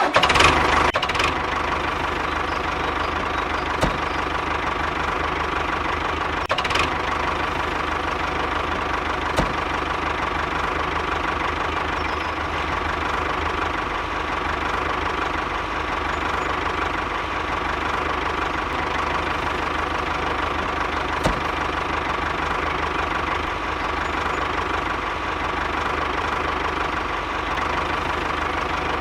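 Small motor of a miniature DIY model tractor running steadily, a constant mechanical drone with a steady whine.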